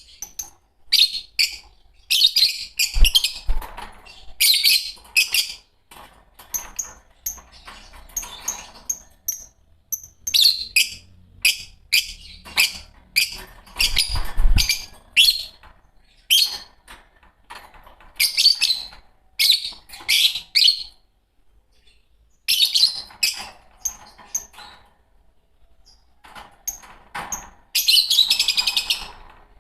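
Fischer's lovebirds chirping: clusters of quick, shrill, high-pitched chirps broken by short pauses, with a dense run of calls near the end.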